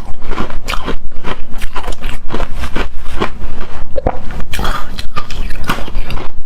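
A person biting into and chewing frozen shaved ice close to the microphone: loud, rapid, crunchy bites, several a second.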